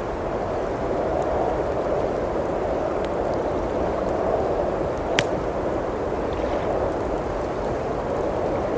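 Steady rush of blizzard wind with a wood fire crackling over it: scattered small crackles and one sharp pop about five seconds in.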